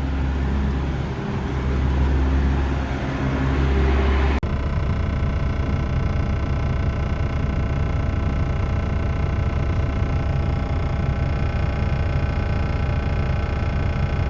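Semi truck's diesel engine idling steadily. About four seconds in the sound changes abruptly to a smoother, even hum with many overtones.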